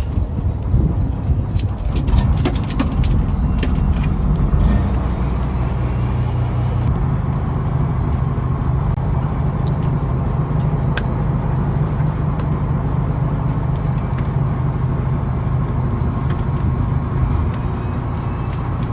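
Fishing trawler's engine running steadily, a low drone. A few sharp clicks and knocks sound over it in the first few seconds.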